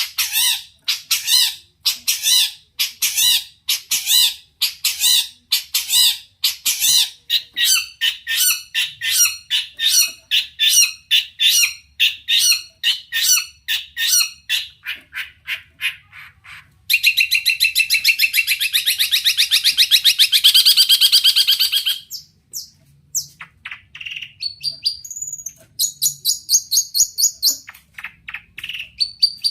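Long-tailed shrike (cendet) singing a loud, harsh song: a string of repeated calls that speed up, then a fast continuous rattling chatter for about five seconds, then varied short notes and quick high trills.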